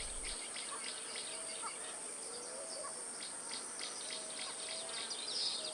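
Nature ambience: a steady high-pitched insect drone with many short bird chirps and a few brief low whistles.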